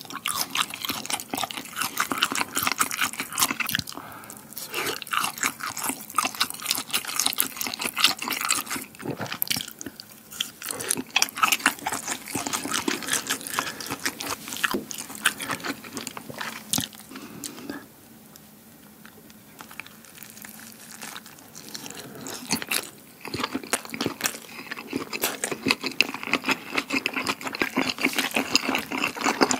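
Close-miked eating of small sausages glazed in Buldak fire-noodle sauce: a dense run of crisp bites and wet chewing clicks. It eases off for a couple of seconds about eighteen seconds in.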